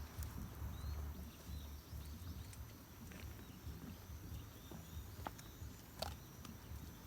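Quiet outdoor ambience: a low steady rumble, a few faint short bird chirps, and two sharp clicks about five and six seconds in.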